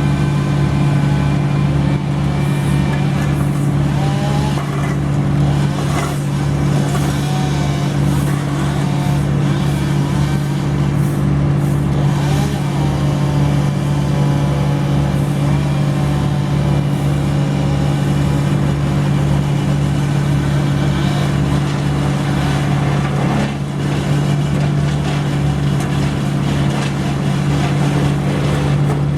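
Engine of heavy tree-removal machinery running steadily: a constant low drone with an even pulsing, and fainter wavering whines above it.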